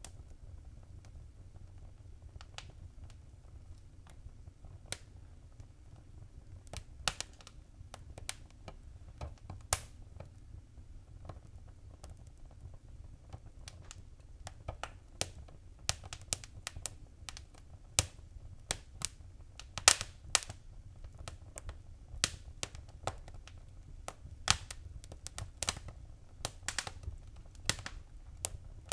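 Wood fire crackling in a fireplace: irregular sharp pops and snaps over a steady low rumble, sparse at first and coming thicker and faster in the second half.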